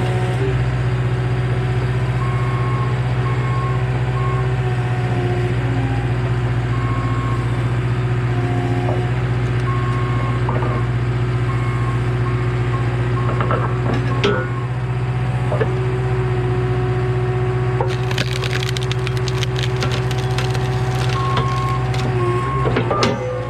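Skid steer engine running steadily while an Eastonmade SS524 skid steer splitter forces through a large, knotty ash round; the wood cracks and splinters repeatedly over the last five seconds or so. A back-up alarm beeps on and off at intervals.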